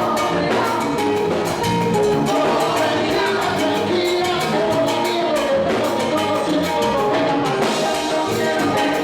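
Live salsa orchestra playing a romantic salsa, with percussion keeping a steady, dense beat under sustained instrumental lines.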